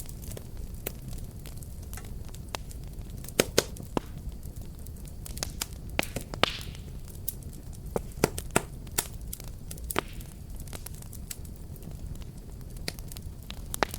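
Fireplace fire burning, with irregular sharp crackles and pops over a steady low rumble of flame; a short hiss about six and a half seconds in.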